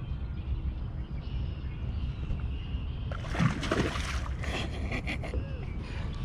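Steady low rumble of distant highway traffic, with a couple of seconds of water splashing and sloshing beside the boat about halfway through.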